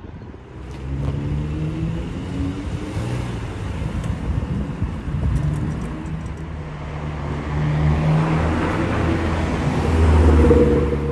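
A car engine running close by, its note steady at first, then growing louder with rising road noise from about eight seconds in, loudest near the end.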